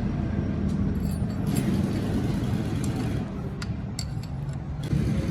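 Metal lathe running steadily with a low hum, with a few sharp metallic clicks in the middle.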